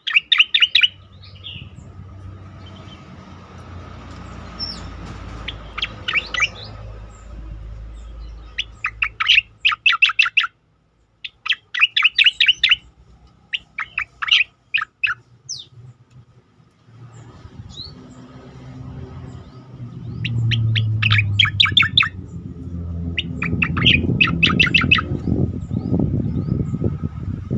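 Cicakoreng (striated grassbird) singing its 'tembakan' song: short bursts of rapid staccato chirps repeated every second or two. A low rumbling background noise grows louder over the last few seconds.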